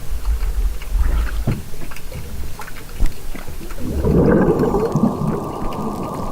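Underwater hydrophone recording: a low rumble with scattered clicks, then about four seconds in a muffled, crackling recording of the sea starts, carrying the first whale calls.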